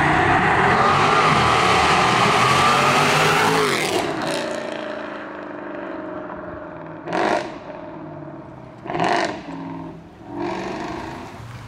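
A performance car's engine accelerates loudly away past the listener and fades as its pitch drops. Then come two short sharp revs about two seconds apart.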